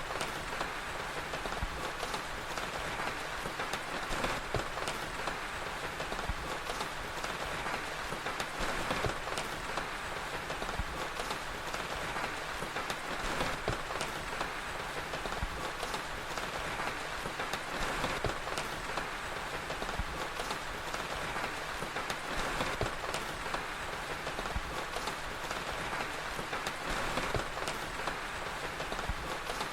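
Steady rain, an even hiss, with many small sharp pops and crackles scattered through it from a crackling fire.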